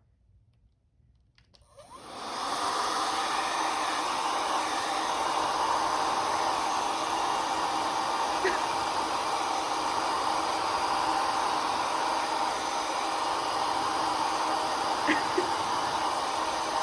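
Hair dryer switched on about two seconds in, then running steadily with a rushing blow of air.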